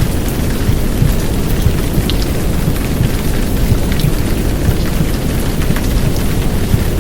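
Heavy downpour rain hissing steadily, with scattered drop ticks, over a dense low rumble from a womb-sound track.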